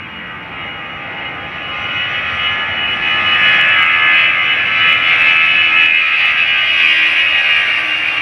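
Boeing 737-800's CFM56 jet engines at takeoff thrust: a loud whine of many close tones over a rushing noise, growing louder over the first three seconds and then holding steady.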